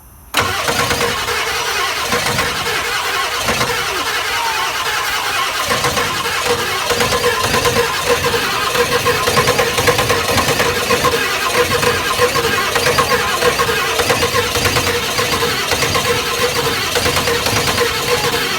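Ford 7.3 IDI V8 diesel being cranked by its starter in a long, hard start after years of sitting, the starter kicking in suddenly about a second in and running on with a steady whine over uneven pulses as the engine struggles to fire.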